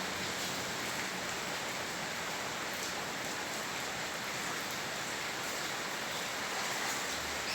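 Heavy rain falling steadily on a flooded street, splashing into standing water as an even, unbroken hiss.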